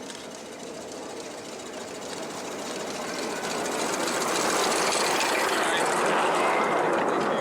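Miniature railway train approaching, its running noise building steadily over the first four seconds and then holding loud as it draws near.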